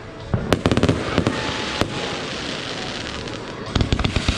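Fireworks going off: a cluster of sharp bangs about half a second in, a single bang near two seconds, then rapid crackling that starts near the end.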